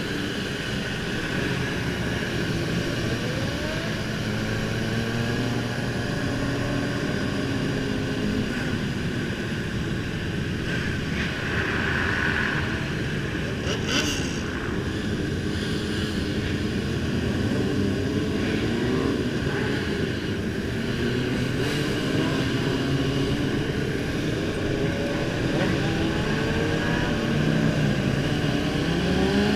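Several motorcycle engines running and revving, their pitch rising and falling, with a short sharp crack about halfway through.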